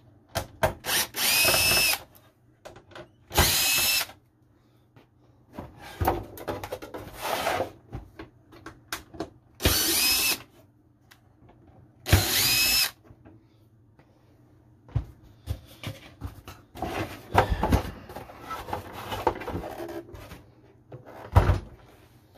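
Power drill-driver spinning in four short runs of about a second each, backing screws out of a refrigerator's ice-dispenser unit. Clicks and rattling of parts being handled come in between the runs.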